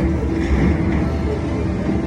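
Slot machine game music of held electronic tones and short notes, over the steady low rumble of a busy casino floor.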